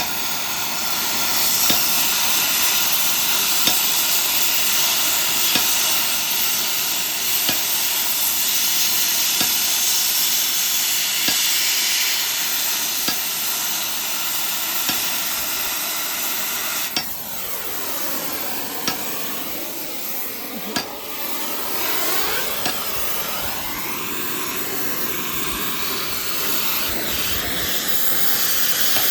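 Oxy-fuel gas cutting torch hissing steadily as it burns through a steel excavator track-chain link, with occasional sharp pops. The hiss changes tone for a few seconds about two-thirds in as the flame moves across the metal.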